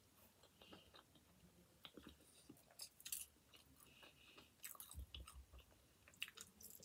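Faint chewing of a mouthful of pizza: soft, irregular mouth clicks and small crunches of crust.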